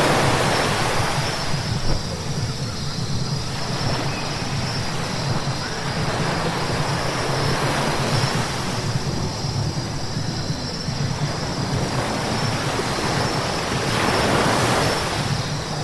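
Car tyres hissing on a wet road while driving, over a steady low hum of engine and road noise. The hiss swells and fades a few times: at the start, through the middle and near the end.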